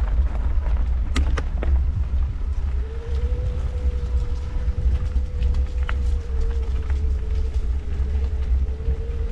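Off-road electric handcycle riding a dirt trail: a steady low rumble of the ride on the microphone, with a few clicks a second or so in, and a steady motor whine that sets in about three seconds in and holds.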